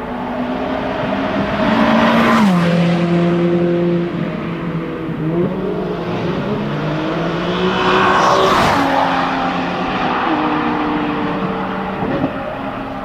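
Ferrari 599's V12 engine and exhaust as the car drives past, loudest about two seconds in and again about eight seconds in, with the engine note dropping in pitch each time it passes. Between the two pass-bys the engine note steps and glides up and down.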